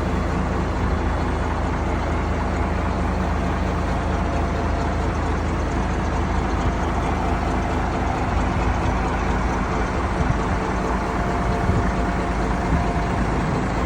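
Diesel engine of an M923 military 5-ton truck running steadily at low speed.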